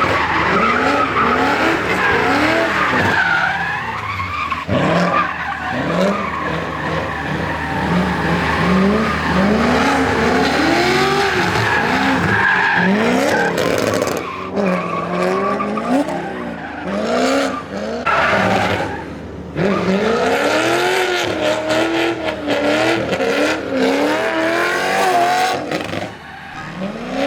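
Cars drifting: engines revving up and falling back again and again as the throttle is worked through the slides, over a steady tyre screech.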